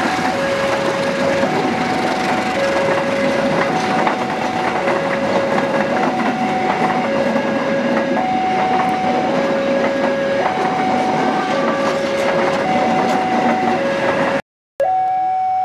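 Passenger coaches rolling past close by, wheels running loudly on the rails, while a railway level-crossing warning alarm sounds two alternating tones, switching about once a second. Near the end the sound cuts out briefly, then the alarm tones carry on.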